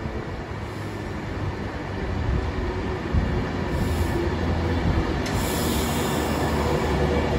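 Avanti West Coast Class 390 Pendolino electric train running along the platform track, growing louder as it approaches. About five seconds in, a rush of noise sets in as the leading car draws level and the carriages roll past.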